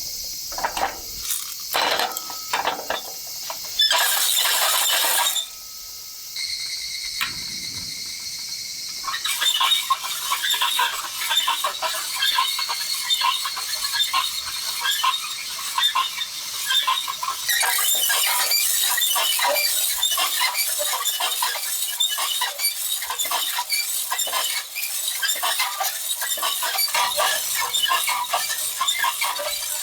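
Campfire crackling and sizzling: a dense, continuous run of small crisp pops over a hiss. A few knocks, a short loud rushing burst and a brief steady whine come in the first seconds.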